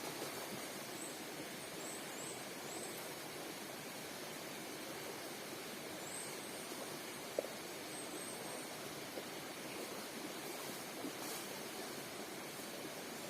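Outdoor forest ambience: a steady background hiss, with faint high chirps of a small bird in the first few seconds and again around the middle, and one sharp click about seven seconds in.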